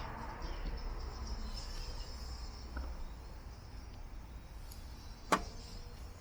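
Campfire burning with a steady faint hiss over a low background rumble, and one sharp crack from the burning wood about five seconds in.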